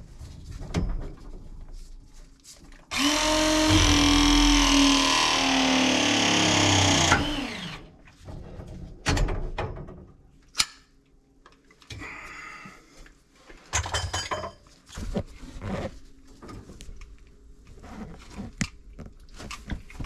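A handheld power tool runs steadily for about four seconds, its pitch sagging slightly, then stops; scattered clicks and knocks of tool handling follow.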